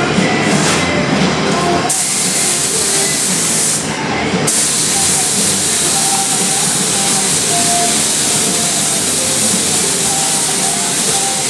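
Air-powered paint spray gun spraying primer: a steady hiss of compressed air through the gun. The trigger is let off until about two seconds in and again briefly around four seconds, then the spray runs on.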